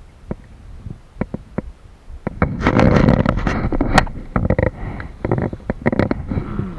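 Kayak paddling: water splashing and sloshing against the hull, with scattered knocks and clunks, the loudest surge of splashing about two and a half to four seconds in.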